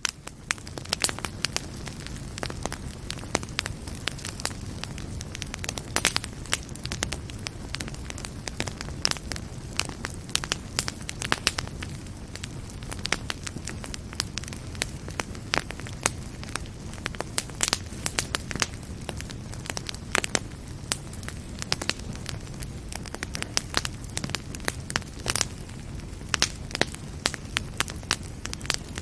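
Wood fire burning in a fireplace: frequent sharp crackles and pops at irregular intervals over a steady low rush of flames.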